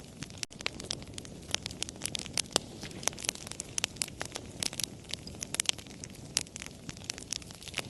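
Wood fire crackling, with irregular sharp pops and snaps several times a second over a low, steady rumble of burning.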